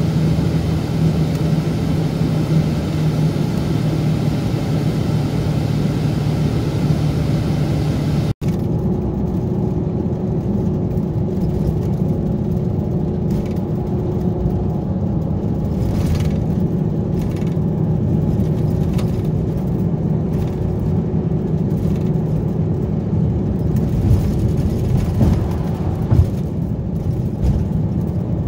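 Scania K410B bus's 13-litre inline-six diesel engine running steadily. About eight seconds in the sound cuts out for an instant and comes back with a different, lower-toned hum.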